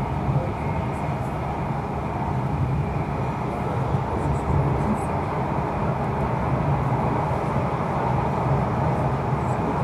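Steady running noise of an InterCity 125 (Class 43 HST) train at speed, heard from on board: wheels on the rails and a low rumble, with a few faint ticks.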